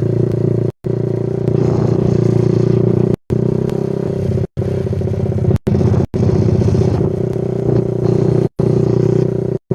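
Yamaha Vixion's single-cylinder 150 cc four-stroke engine running steadily through a Kou Mahachai aftermarket racing exhaust. The sound cuts out completely for a split second several times.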